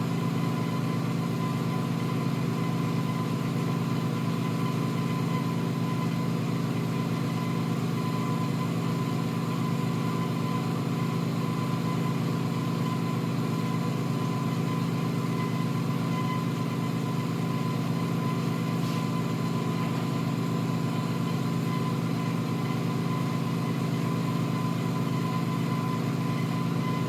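Vacuum pump running steadily with an even hum and a faint high tone, pulling down the neon manifold through newly replaced tubing and hoses.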